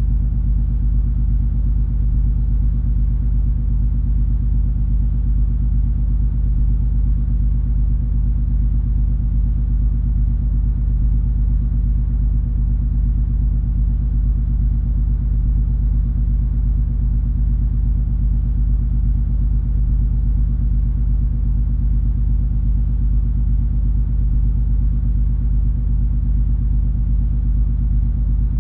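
Steady low engine drone of the cruise ferry MS Color Magic under way, a deep even hum with no change in pitch or level.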